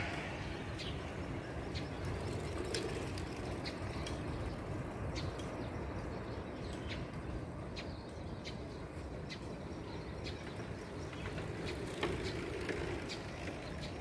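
Short, high bird chirps scattered through, roughly one a second, over a steady low rumble of outdoor background noise.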